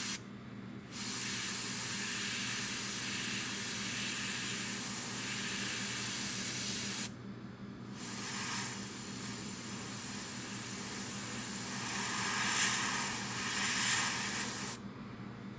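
Airbrush spraying paint: two long bursts of air hiss of about six seconds each, with a short pause between. The second burst grows louder near its end.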